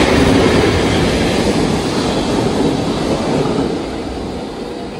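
EF65 electric locomotive hauling a short train passing through the station on the adjacent track. Its rumble and wheel noise are loudest about the first second, then fade steadily as the train moves away.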